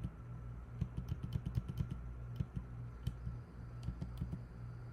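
Computer keyboard keys clicking in quick, uneven succession, several a second, with a short lull about three seconds in, over a low steady hum.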